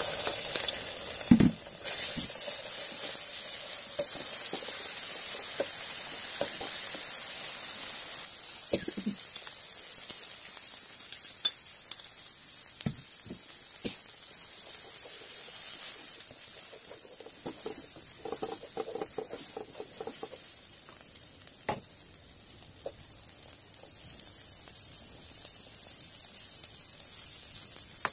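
Chili-garlic spice paste sizzling steadily in hot oil in a wok, loudest for the first several seconds after it goes in. A spatula scrapes and knocks against the pan now and then, with one loud knock about a second in.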